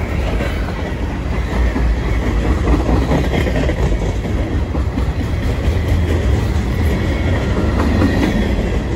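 Freight train cars, refrigerated boxcars and covered hoppers, rolling past: a steady heavy rumble of steel wheels on the rails with a few wheel clicks over the joints.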